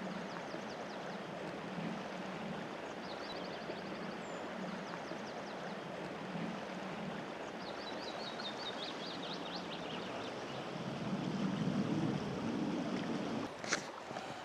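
River water flowing with a steady rush. A small songbird sings twice over it, each time a quick run of high notes falling in pitch, and there is a single sharp click near the end.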